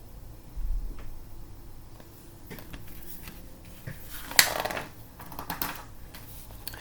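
Pages of a picture book being handled and turned: a few soft clicks and paper rustles, with one louder brush of paper about four and a half seconds in.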